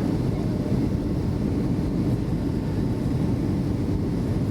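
Steady engine and airflow rumble inside the passenger cabin of a Boeing 757-200 in flight, even and low-pitched with no distinct events.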